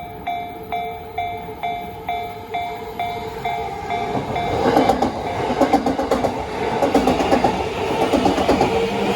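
Japanese level crossing warning bell ringing at a little over two strikes a second. About four seconds in, a Yamanote Line train starts passing over the crossing: its wheels clatter over the rail joints, loud enough to drown the bell.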